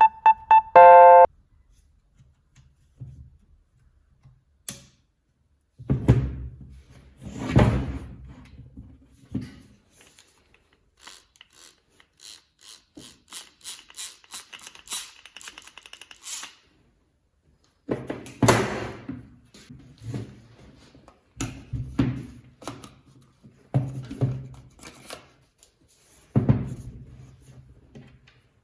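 A series of separate knocks and thuds, like parts and tools being set down and handled on a workbench, with a run of quick light clicks for about four seconds in the middle. A short pitched tone sounds at the very start.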